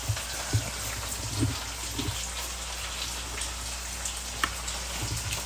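Stir-fried glass noodles sizzling in a wok, a steady crackling hiss, with a few soft knocks in the first couple of seconds.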